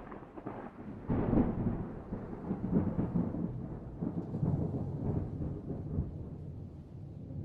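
Thunder rumbling: a low roll that swells suddenly about a second in, then rolls on unevenly with another surge a few seconds later, slowly fading.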